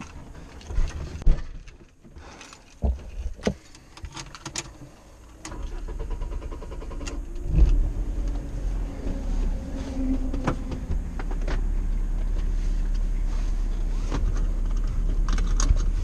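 Clicks and knocks inside a BMW E36 3 Series cabin, then the engine is cranked and starts about six to eight seconds in, settling into a steady idle.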